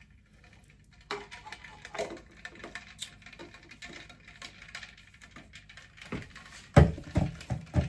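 A string of light clicks and taps, with a few louder, deeper knocks near the end, like objects being handled and set down.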